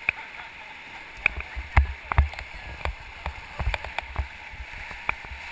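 River whitewater rushing around a raft, with irregular sharp splashes and knocks and low thumps throughout.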